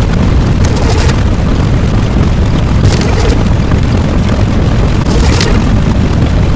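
Loud, continuous deep rumble of an explosion-like sound effect, with a short hissing burst about every two seconds.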